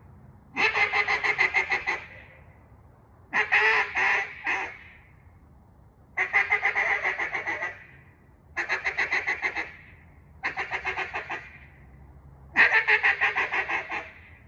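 Singleton acrylic cutdown duck call blown in six strings of rapid, clipped notes, about ten a second, with short pauses between them; the second string is a few slower, separate notes.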